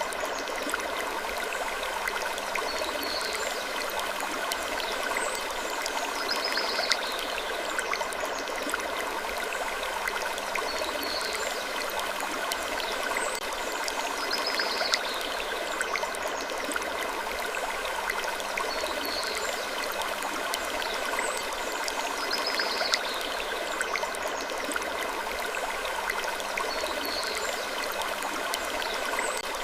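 Gentle wood creaking in a looped sleep ambience: faint high creaks recur about every two seconds over a steady rushing hiss like running water.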